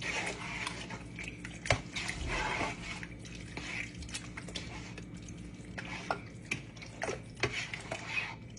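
A spoon stirring a wet mix of chicken, mixed vegetables, water and cream of chicken soup in a pot: liquid sloshing with scattered clicks of the spoon against the pot.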